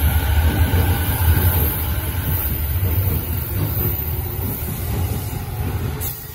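Electric commuter train rolling along the platform track, its wheels and running gear making a steady low rumble that grows fainter and drops off about six seconds in.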